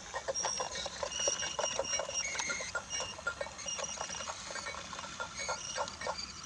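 Wooden Brio toy train running over wooden track: a quick, uneven run of small clicks and rattles, with short high-pitched squeaks among them.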